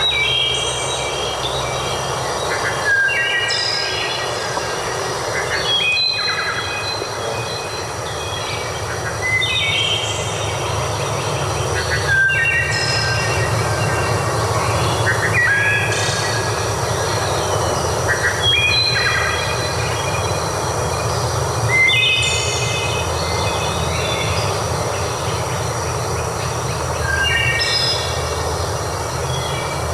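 Flowing water rushing steadily, with a songbird repeating a short, stepped, falling phrase every two to three seconds.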